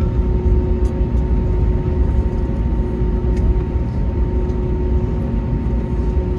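Airbus A321neo jet engines running steadily: a loud low rumble with a few steady hum tones over it.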